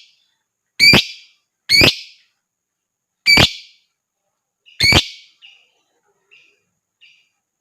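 Lovebird giving short, shrill, loud chirps, four of them one to one and a half seconds apart, followed near the end by a few fainter chirps.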